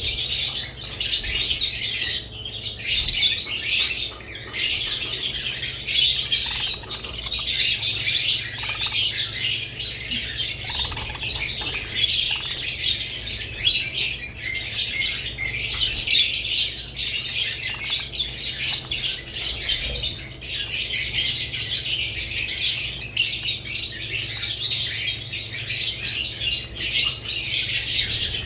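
A flock of budgerigars and lovebirds chattering together: dense, high-pitched chirps and squawks that run on without a break.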